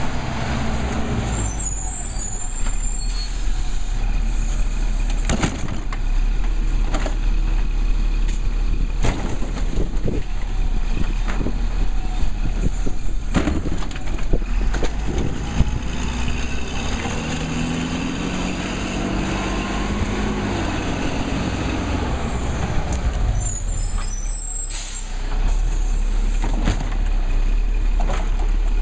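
Labrie Cool Hand garbage truck running, with a steady low rumble and repeated knocks and clanks. Partway through, a pitched sound rises and falls for a few seconds; the level dips briefly and then comes back louder near the end.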